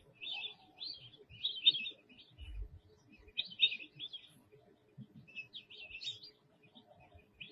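Small birds chirping in quick bursts of short, high notes, in about four clusters with brief pauses between them.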